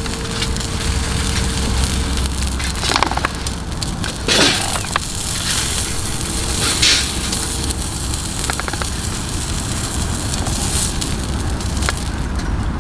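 Wood campfire burning and crackling over a steady low rumble, with a few louder snaps or rustles about three, four and a half, and seven seconds in.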